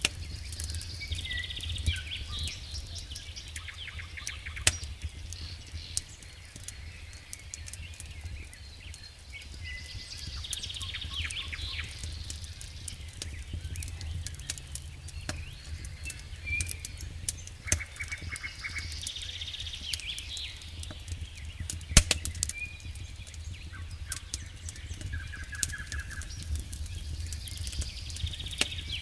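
Campfire crackling with scattered sharp pops, one much louder pop about 22 seconds in, over a low steady rumble. A songbird repeats the same short chirping song about every nine seconds.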